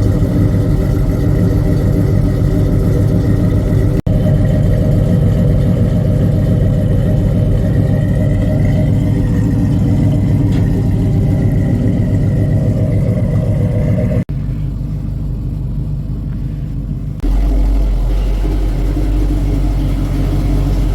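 Truck engines running, a steady low-pitched engine sound that changes abruptly at a few edit cuts.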